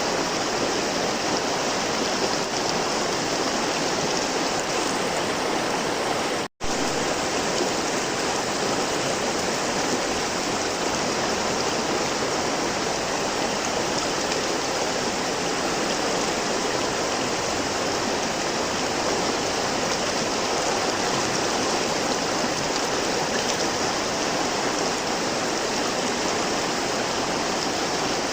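River water flowing in a steady, even rush. The sound cuts out for an instant about six and a half seconds in, then resumes unchanged.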